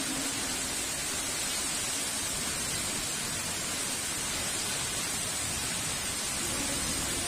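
Heavy rain falling steadily, an even hiss with no thunder in it.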